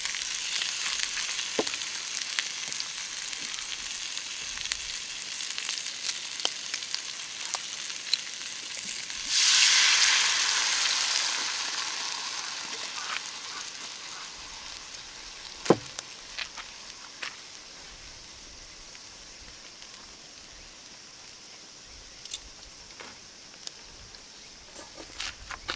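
Food sizzling in oil in a small frying pan over a campfire, with scattered pops. About nine seconds in the sizzling suddenly grows much louder, as when something is added to the hot pan, then dies away over several seconds. A sharp knock comes a few seconds later.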